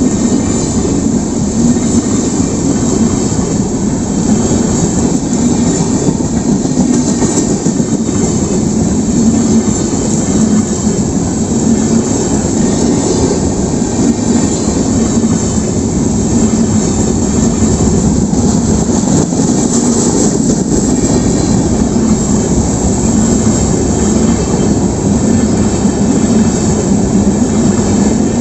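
Passenger train running on rails: a steady, loud rolling rumble of wheels on track.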